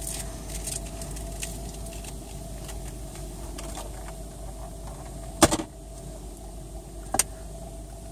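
Inside a car in an automatic car wash: a steady low hum with a steady mid tone, light crackling at first, then two sharp knocks, a loud one about five and a half seconds in and a smaller one under two seconds later.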